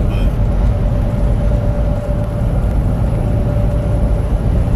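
Steady low rumble of a truck's engine and road noise heard from inside the cab while driving on the highway, with a faint steady hum.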